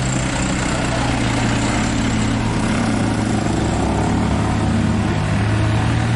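Dump truck's diesel engine running steadily at full throttle up a steep climb, a constant low drone.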